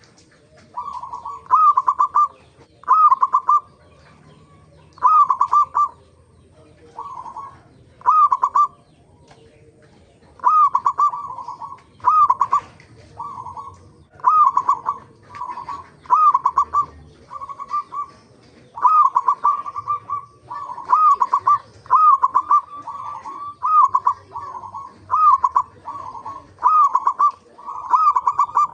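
Zebra dove (perkutut) cooing: a long run of short, rippling coo phrases repeated about once a second, with a few brief pauses.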